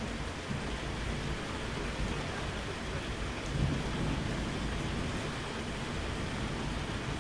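Steady rainfall with low thunder rumbling underneath, swelling a little about halfway through.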